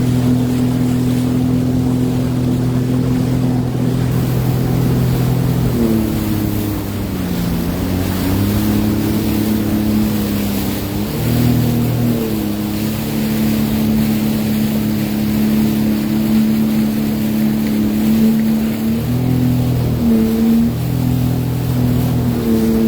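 Sea-Doo Fish Pro personal watercraft engine running at steady throttle. About six seconds in it eases off and the pitch falls, then it picks back up and holds, with a couple of short dips near the end. Wind and water rush sound underneath.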